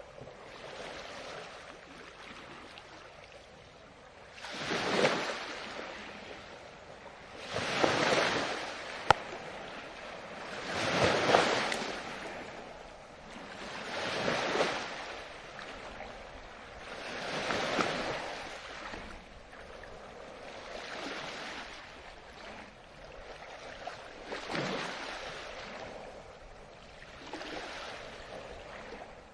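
Ocean waves breaking and washing up the shore, swelling and fading about every three to four seconds, with one sharp click about nine seconds in.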